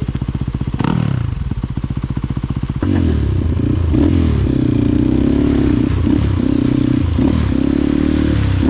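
Trail motorcycle engine ticking over, then from about three seconds in revved harder, its pitch rising and falling again and again as the bike is worked through mud.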